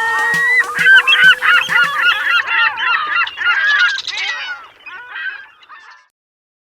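A flock of seagulls calling, many overlapping squawks at once, thinning out and stopping about six seconds in.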